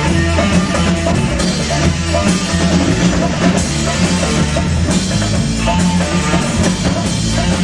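Rock music played by a band, with drum kit, bass and guitar, at a steady loud level.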